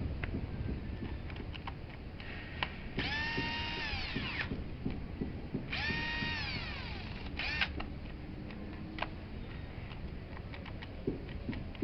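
Electric screwdriver whirring in two bursts of about a second and a half and one short one, each holding pitch and then winding down, with scattered clicks and knocks of tools and metal parts being handled.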